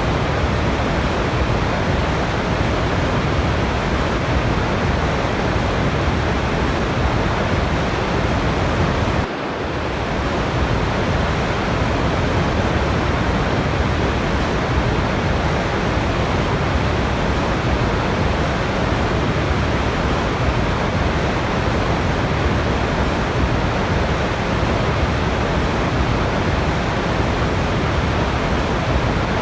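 Waterfall water rushing in a steady, even roar. About nine seconds in it dips briefly and swells back within a second.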